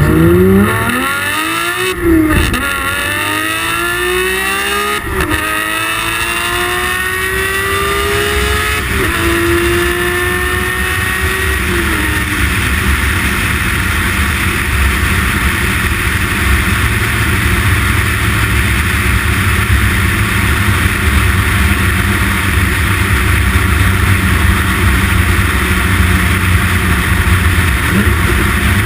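Porsche 911 GT3 (991.2) naturally aspirated 4.0-litre flat-six with an FI valved exhaust under full acceleration: the engine note climbs steeply through the revs and drops back at each manual upshift, four times over about twelve seconds. After that it settles into a steady drone mixed with road and wind noise.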